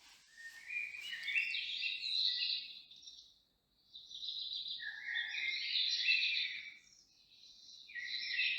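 Songbird singing: three phrases of rapid, high twittering, each two to three seconds long, separated by short pauses.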